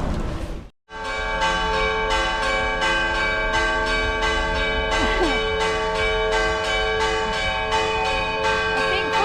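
Church bells ringing a rapid, continuous peal, about three strikes a second, their tones ringing on and overlapping. The peal begins just under a second in, after a brief silent gap.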